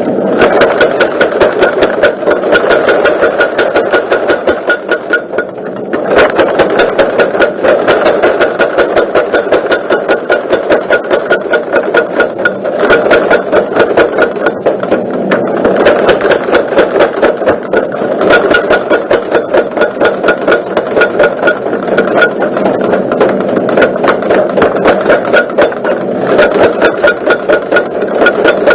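Motor-driven forging power hammer running, its ram striking in a rapid, even rhythm of several blows a second over a steady motor hum, with a brief lull about five seconds in.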